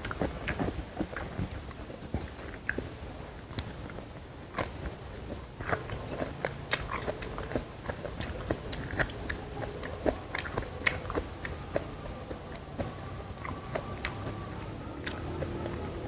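Close-miked eating: crunchy bites and chewing, with many sharp, irregular crackles and mouth sounds.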